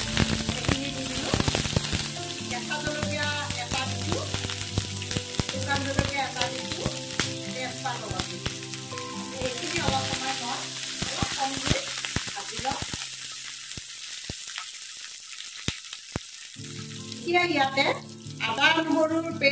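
Sliced onions sizzling and frying in hot mustard oil in a non-stick kadai, with a spatula clicking and scraping against the pan as they are stirred.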